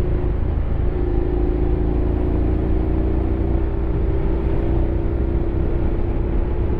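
Honda X-ADV 750's parallel-twin engine running at a steady cruise, holding an even note, under a heavy low rumble of wind and road noise.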